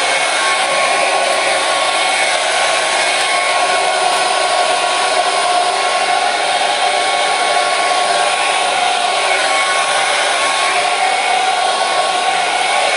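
Hair dryer running steadily, an even whooshing hiss of fan and air with a faint whine from the motor, unchanging throughout.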